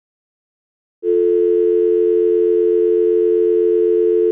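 Telephone dial tone: a steady, unbroken two-note hum that starts abruptly about a second in.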